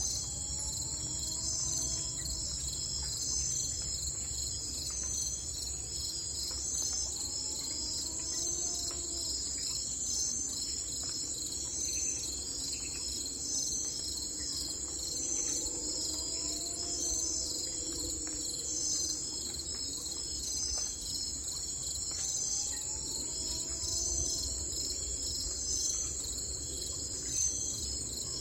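Nature ambience: a steady, dense chorus of insects chirping in a high pulsing trill, over a low rumble. A lower call that rises and falls comes four times, about every seven to eight seconds.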